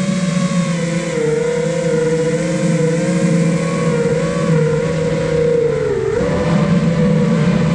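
The brushless motors and propellers of a 5-inch FPV quadcopter (iFlight Nazgul Evoque F5) whining. Their several tones shift in pitch with the throttle, dipping briefly about six seconds in.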